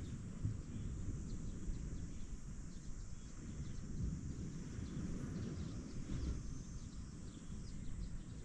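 Wind blowing across the microphone with a low, gusty rumble over the steady wash of ocean waves. Small birds give short, faint chirps throughout.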